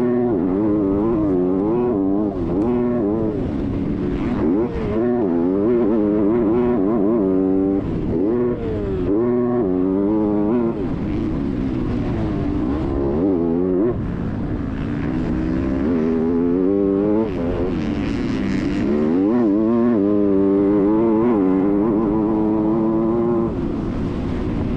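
Motocross bike engine revving hard while ridden, its pitch climbing and dropping again and again with throttle and gear changes.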